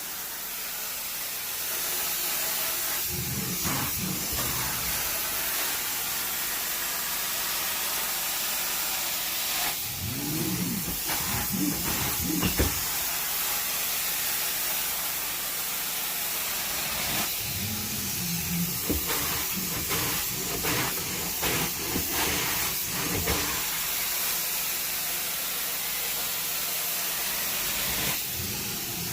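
Carpet cleaning equipment running with a steady hiss, with a few low, irregular knocks and rumbles from working it over the carpet.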